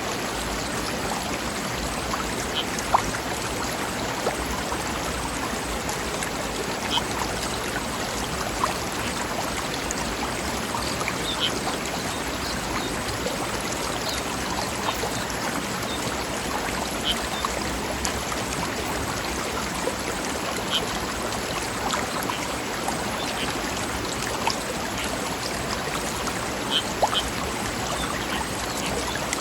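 A mountain stream running over rocks: a steady rush of flowing water with small splashes and gurgles scattered through it.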